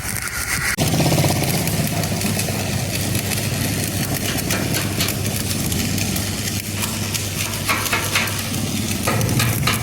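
Stick welding arc crackling steadily, over a steady low hum.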